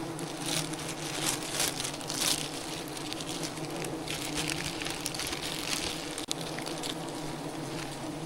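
Honey bees from a wild hive buzzing in a steady drone, with scattered short rustling noises.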